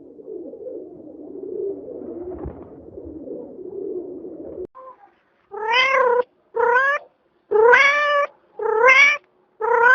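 A cat meowing five times in a row, each call short and rising slightly in pitch, starting about halfway through. Before that there is a low rough rumbling that cuts off suddenly.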